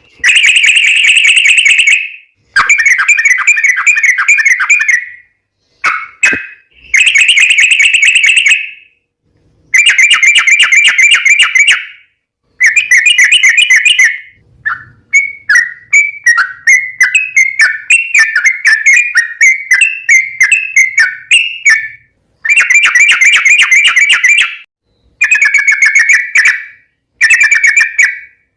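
Yellow-vented bulbul (trucukan) singing a long, rapid song: loud, bubbly chattering phrases of a couple of seconds each, separated by short pauses, with a longer run of separate up-and-down notes around the middle.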